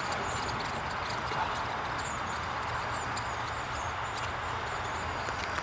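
Many short, thin, high calls from a passing flock of small migrating birds, yellow-faced honeyeaters among them, over a steady background hiss.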